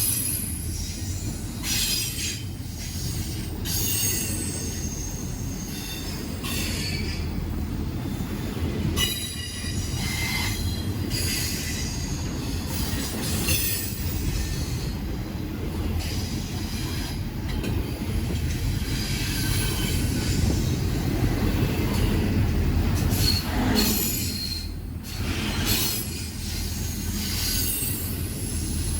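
Freight train rolling past with a steady low rumble, its wheels squealing on and off in high-pitched screeches against the rails.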